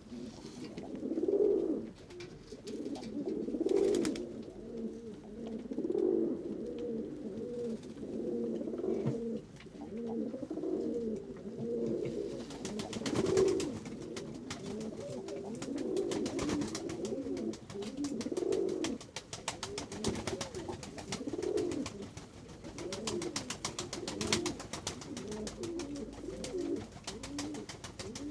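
Several pigeons cooing at once, a continuous overlapping chorus of low warbling coos. From about twelve seconds in a fast patter of light clicks runs under the cooing.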